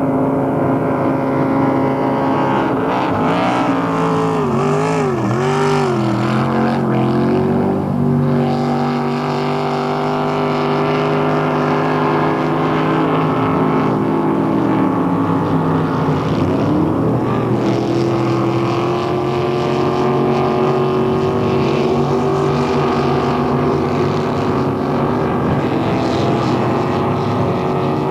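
Motorboat engines running, their pitch wobbling up and down about four to six seconds in, then holding steadier.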